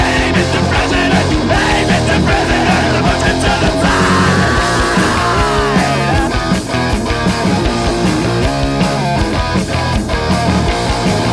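A live punk rock band playing an instrumental passage with no vocals. About four seconds in, a high note slides downward over a couple of seconds.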